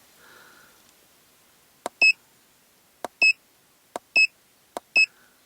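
Autel MD802 handheld OBD2 scan tool beeping as its buttons are pressed to step through fault codes. There are four presses, about one a second, each a click followed by a short high beep.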